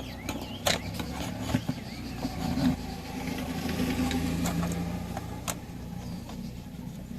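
A low engine hum that grows louder near the middle and then eases off, with a few sharp clicks.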